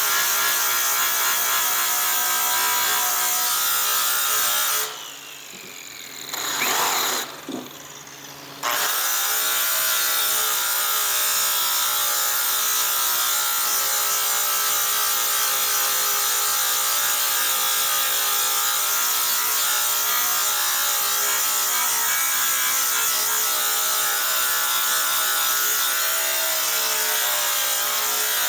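Electric polisher running with its pad rubbing on a metal aircraft exhaust pipe. About five seconds in it stops, runs again for a moment, then starts back up about three seconds later and runs steadily.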